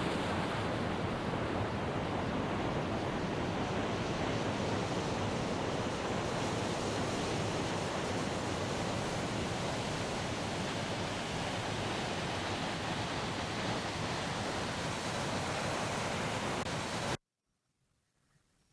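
Steady rushing noise that stops abruptly near the end.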